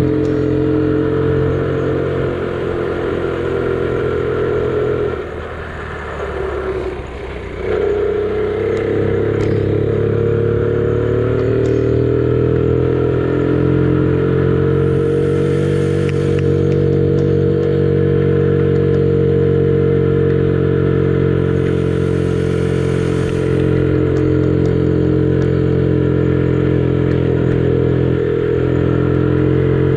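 Honda Gorilla minibike's small single-cylinder four-stroke engine running under way. The note stays mostly steady, eases off and drops in pitch about five seconds in, then picks back up about eight seconds in.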